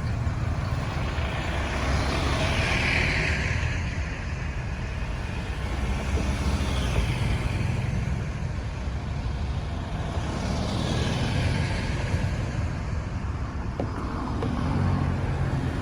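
Road traffic noise: a steady low rumble of engines and tyres, with vehicles swishing past every few seconds.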